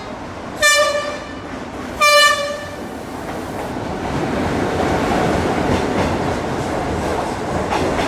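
Passenger train's horn sounding two short blasts about a second and a half apart, then the train rolling along the platform with a steady rumble of wheels and carriages.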